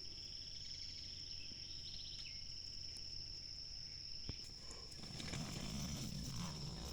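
Night insects calling in woodland, with one steady, unbroken high-pitched trill of the cricket kind. In the first two seconds a second, pulsing trill sounds with it. From about five seconds in, a low rumbling noise rises underneath.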